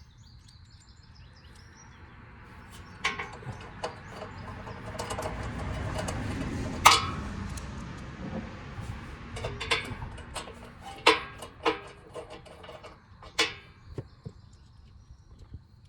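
Scattered metallic clinks and knocks of bolts and tools being handled while bolts are hand-tightened, about seven in all, the sharpest about seven seconds in. Under them a low rushing noise swells and then fades in the middle.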